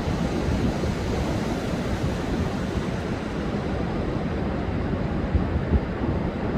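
Rough, storm-driven sea surf breaking continuously on a sandy beach, with wind buffeting the microphone and a few louder gusts near the end.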